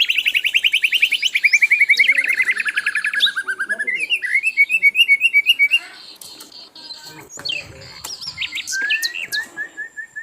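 Sikatan londo flycatcher singing: a fast, loud trill that slides steadily down in pitch for about three seconds, then a bouncy run of short rising notes. After that come softer chips and calls, ending in a short series of even notes.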